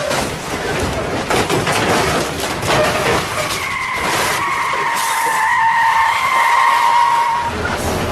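A car skidding, its tyres giving a long squeal that falls slightly in pitch over about four seconds, starting about halfway through, over constant road and traffic noise.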